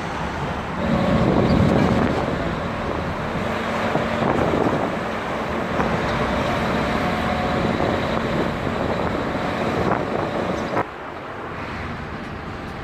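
An engine running close by amid street traffic noise, with a steady hum that drops away abruptly near the end.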